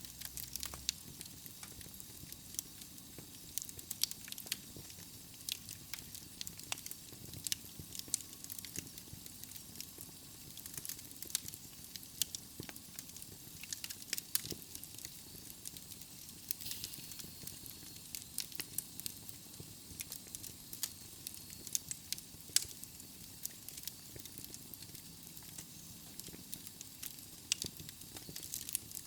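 Wood logs burning in a fireplace: a steady hiss with irregular sharp crackles and pops, several a second, some louder than others.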